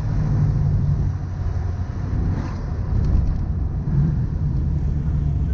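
Muscle car engine and exhaust running steadily while driving, with the sound sitting low in pitch and holding an even level.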